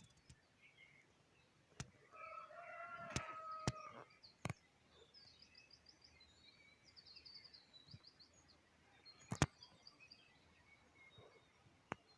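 A rooster crows once, a call of about two seconds, while small birds trill in quick runs of high repeated notes. Several sharp clicks are scattered through, one of them the loudest sound.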